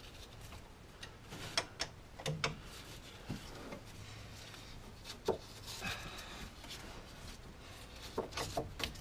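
Scattered tool clicks, light knocks and a brief scrape as a brake caliper's guide pins are wound in and tightened with a hand tool.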